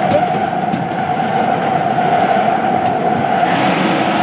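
SEPTA commuter train running along the track: a steady rumble with a constant high whine and a few sharp clicks from the wheels over the rails.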